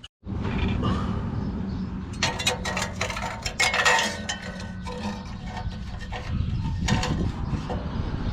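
Thin sheet-metal stovepipe being worked by hand with hand tools: light metallic clinks and crinkling, busiest from about two to four and a half seconds in.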